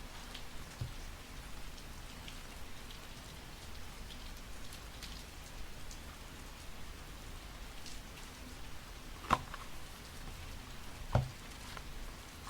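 Steady rain with scattered drops, and two sharp taps about nine and eleven seconds in.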